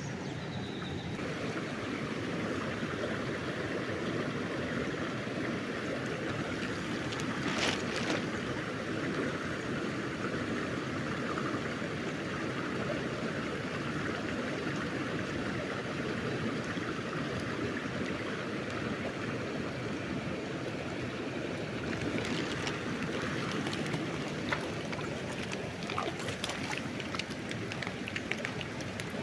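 River water flowing steadily, with a few short clicks, one about eight seconds in and several more near the end.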